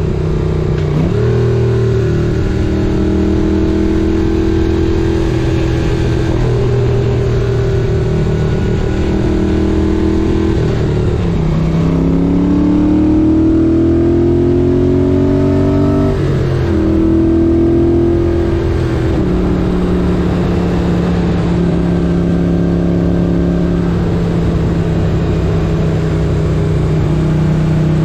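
1978 Moto Guzzi 850 Le Mans's air-cooled V-twin running on the road. Its pitch drops about a second in, dips again around ten seconds, rises steadily as it accelerates, then drops at a gear change around sixteen seconds and holds steady after that.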